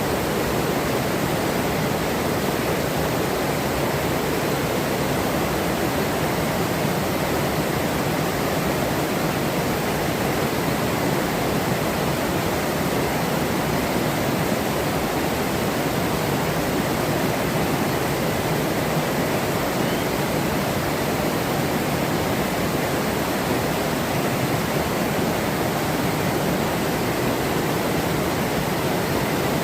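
Forest river flowing over rocks: a steady, even rush of running water.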